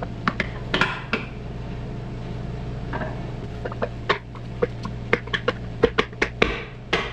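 Scattered sharp metallic clinks and knocks of tools and engine parts being handled. A few come in the first second, then a quick run of them in the second half, over a steady low hum.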